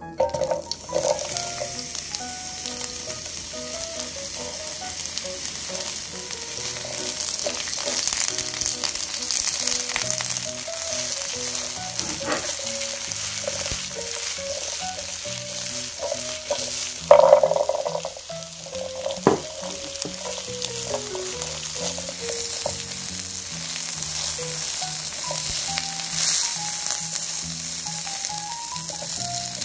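Sliced onions hitting hot oil in a nonstick frying pan and sizzling steadily as they are stir-fried with a silicone spatula. There is a brief, louder clatter a little over halfway through.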